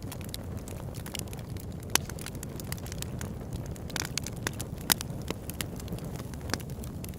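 Campfire burning with a steady low rush of flames and frequent sharp crackles and pops of burning wood, the loudest pops about two and five seconds in.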